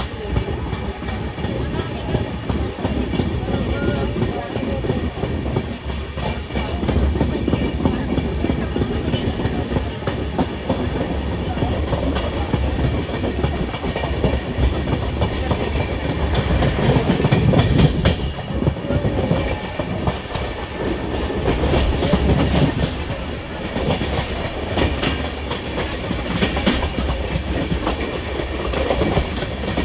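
Indian Railways express train running along the track, its coach wheels clattering over the rail joints. It is heard from an open coach doorway, with a steady rumble under the clicks.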